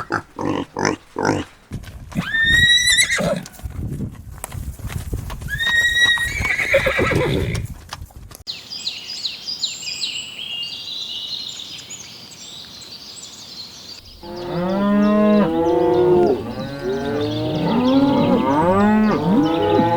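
A horse whinnying twice, after a few last grunts at the start. Then small birds chirping high and quickly, and from about two-thirds in, a flock of birds calling with many overlapping honks.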